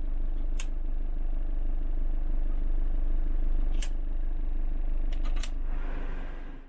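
A cab heater blower fan runs steadily on its third speed, newly fed through a replacement resistor, over the low hum of the Fiat Ducato 2.5 turbo-diesel idling. A few sharp clicks come through, with a quick cluster of them about five seconds in.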